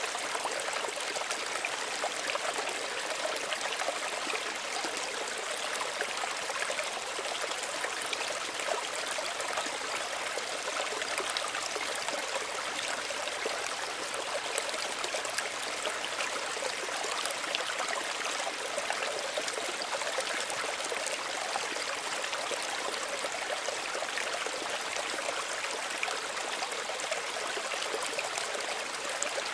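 Small stream running steadily over stones, a gentle trickling and babbling water sound.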